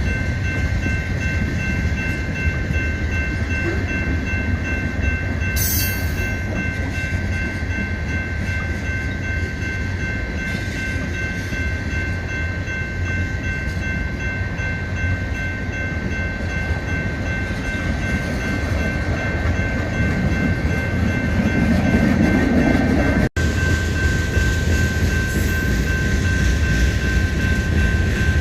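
Freight train rolling past at track side: a steady low rumble of railcars on the rails, with a steady high-pitched ring over it.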